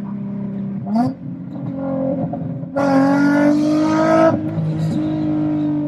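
Infiniti G35 coupe's VQ35DE V6, heard from inside the cabin while driving: a brief rise in revs about a second in, then a louder, longer climb in revs that falls away near the four-and-a-half-second mark as the next gear goes in, then steadier running.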